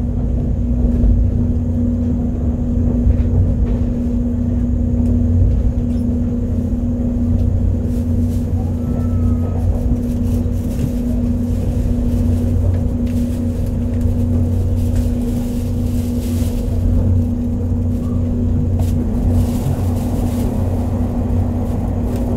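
Cabin sound of a 485-series electric train running at steady speed: a continuous low rumble from the wheels and running gear with a steady hum. A few faint rattles come through in the second half.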